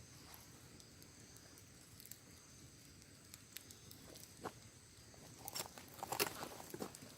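Wood campfire crackling: scattered small pops and snaps, with a denser, louder run of crackles from about five and a half seconds in.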